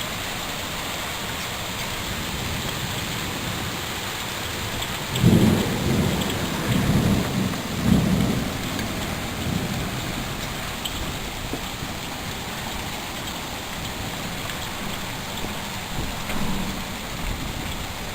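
Steady rain falling, with a rumble of thunder starting about five seconds in and rolling on for a few seconds, then a fainter rumble near the end.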